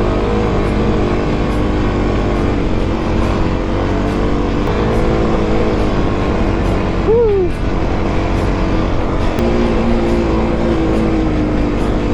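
Single-cylinder four-stroke dirt bike engine running steadily on a trail, with wind noise on the microphone; about seven seconds in there is one short, sharp drop in pitch.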